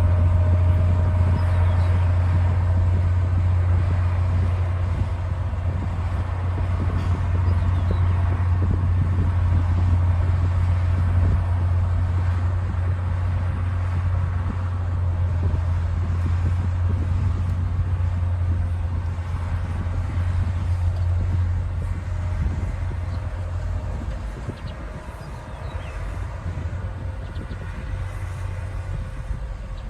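Diesel engine of a D60 crawler bulldozer running steadily with a deep, continuous drone, dropping somewhat in level about three-quarters of the way through.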